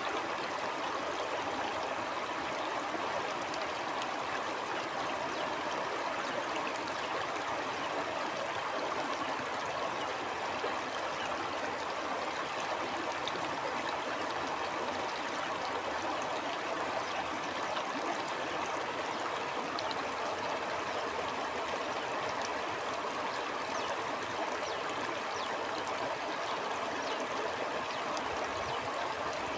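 Stream water flowing and burbling over rocks, a steady rushing with fine trickling detail.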